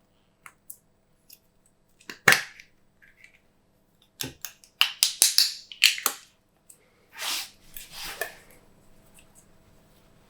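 Glossy slime being pressed and squished by hand, giving off sharp wet pops and crackles from trapped air, in short clusters with gaps between.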